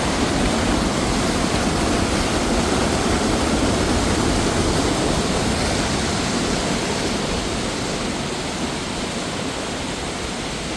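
Waterfall water rushing steadily in a dense, even noise, easing slightly toward the end.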